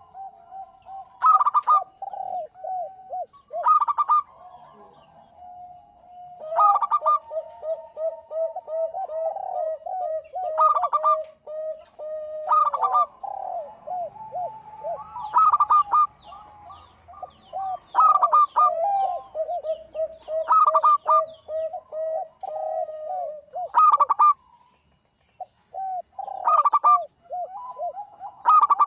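Zebra doves (perkutut) cooing in rapid, rolling runs of short notes, with a louder call recurring about every two to three seconds. The song breaks off briefly a little before the end.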